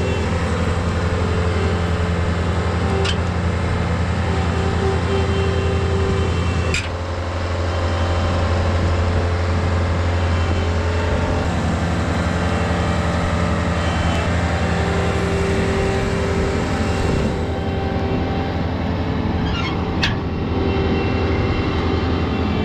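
Farm tractor engine running steadily while driving, with a shift in the engine note about seven seconds in and a few sharp knocks or rattles.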